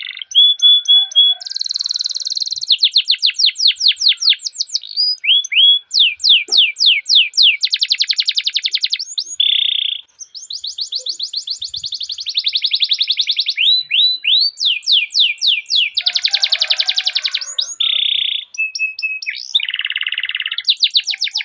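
Canary singing a long, continuous song: fast trills of repeated down-sweeping notes alternating with dense rolls and short held notes, with one brief pause about ten seconds in.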